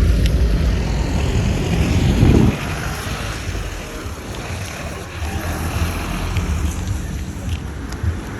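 Street traffic noise with wind buffeting the microphone: a loud low rumble of a passing vehicle for the first couple of seconds, then a steadier rumble of traffic.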